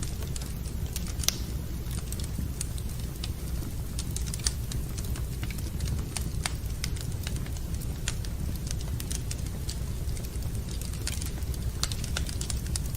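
Wood fire in a fireplace crackling, with irregular sharp pops (two louder ones in the first few seconds) over a steady low rumble.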